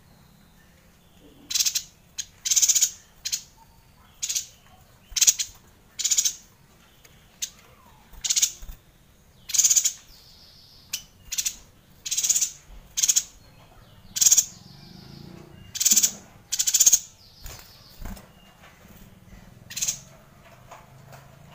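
Yuhina calling: a run of short, harsh call notes, roughly one a second, with a few softer, steadier notes in between.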